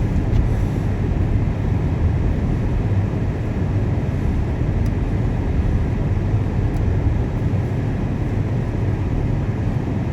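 Steady low rumble of a 2018 Jeep Grand Cherokee driving slowly on a snow-covered road, its tyres and engine heard from inside the cabin.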